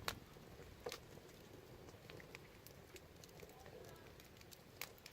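Wood fire crackling quietly: scattered small snaps with a few sharper pops, the loudest right at the start, about a second in and just before the end.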